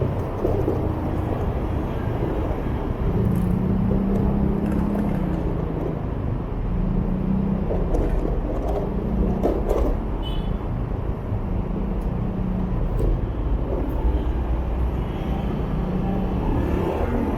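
Motorbike engine running while riding in traffic, its note rising and falling with the throttle, over a steady low rumble of road and wind noise.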